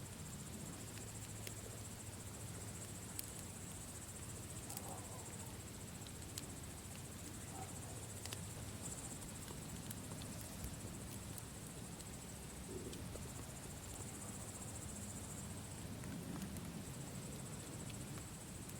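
Campfire crackling, with scattered sharp pops over a low steady rumble, against crickets chirring continuously in a high band.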